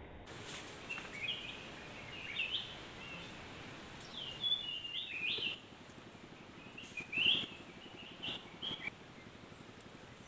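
Small birds calling: clusters of short, high chirps, the loudest about seven seconds in, over a faint steady background noise.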